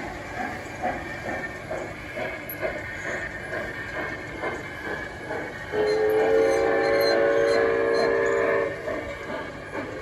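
Train running with a rhythmic chuff of about two to three beats a second. A little past halfway a chorded train whistle sounds and holds for about three seconds, and it sounds again near the end.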